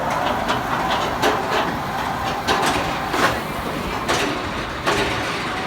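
Steel inverted roller coaster train running on its track: a steady rumble with a string of sharp, irregularly spaced clacks and knocks.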